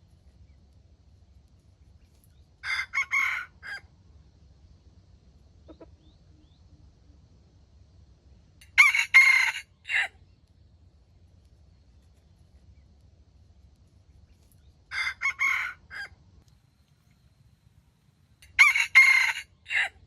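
Rooster crowing four times, about every five to six seconds, each crow a short call of about a second; the second and fourth crows are louder than the first and third.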